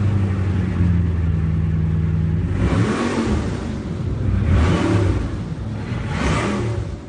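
Bugatti Chiron's quad-turbo W16 engine idling just after start-up, then revved three times, each rev rising and falling back, about three, five and six seconds in.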